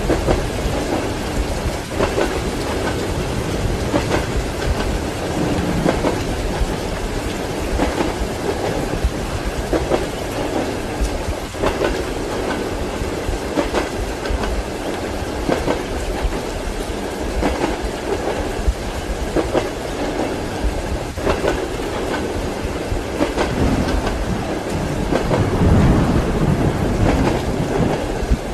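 Passenger train running: a steady rumble with the wheels knocking over rail joints, mixed with rain. A low roll of thunder swells near the end.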